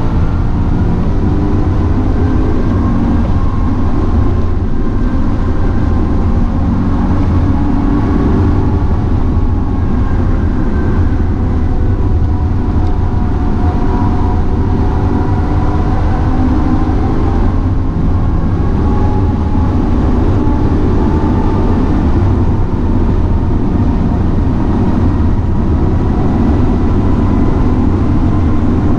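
BMW E92 M3's V8 engine heard from inside the cabin at track pace, its pitch rising and falling as the driver accelerates and lifts through the corners, over a heavy low rumble of road and tyre noise.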